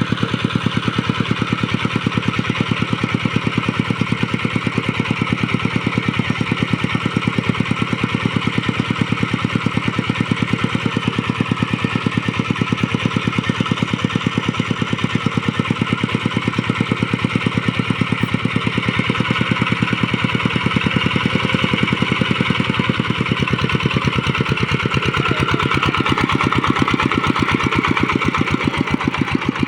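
Hand tractor engine running steadily with a rapid, even firing beat. It grows a little louder over the second half and eases off near the end.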